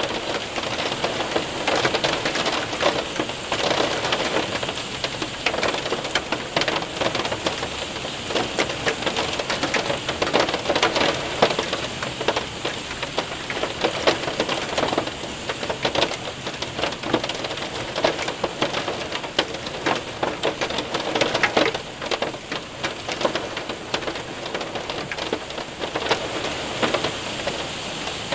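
Hail and rain hitting a window and roof: a dense, steady patter of small sharp impacts over a hiss of rain, growing heavier for a moment every few seconds.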